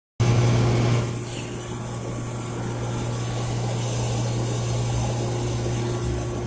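2014 York LX heat pump outdoor unit running in its defrost cycle: its Bristol compressor gives a steady low hum under a hiss, the hiss louder for the first second.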